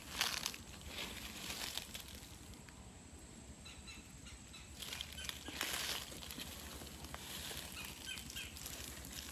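Soft swishing of grass and clothing in a few short bouts as a hunter creeps forward on foot, with faint short high chirps in between.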